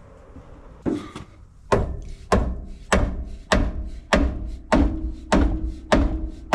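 Rubber mallet striking a pickup's steering pitman arm about ten times, about a second in and then a steady blow every half second or so, to knock the tapered joint loose. Each blow is a heavy thunk with a short metallic ring.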